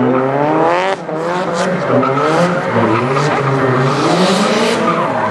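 Drift car's engine revving up and down hard, with tyres squealing and skidding through donuts.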